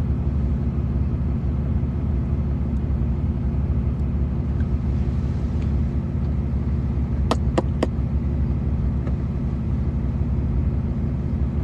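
Truck engine idling while it warms up on a cold day, a steady low rumble heard from inside the cab. About seven and a half seconds in there are three quick, sharp clicks.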